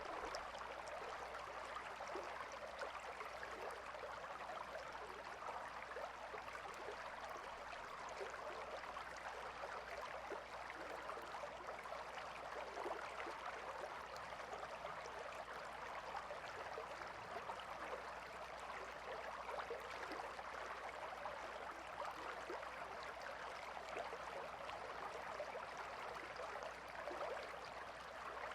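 Calm river flowing steadily: a continuous rush of water with many small splashes.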